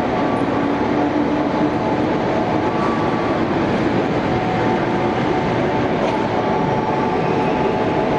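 JR West electric train running at Osaka Station, a steady loud rail noise with faint held tones over it.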